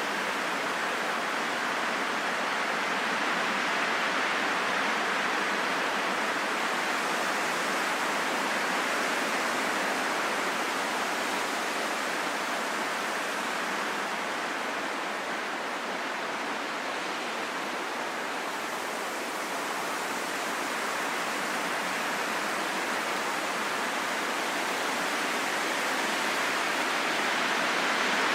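Steady heavy rain falling in a forest, a dense, even hiss with no separate drops standing out.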